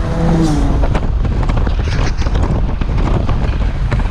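Wind buffeting the microphone through an open window of a moving car, over a steady low road rumble.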